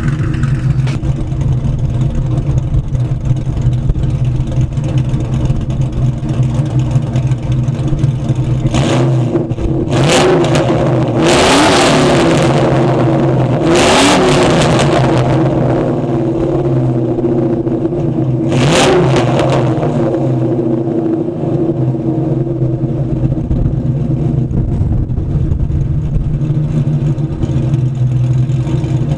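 Ford Mustang GT's 4.6 two-valve V8, with Comp 262 cams, long-tube headers and SLP LoudMouth mufflers, idling with a choppy cam lope. The throttle is blipped about four times in the middle, one of them a longer rev, before it settles back to idle.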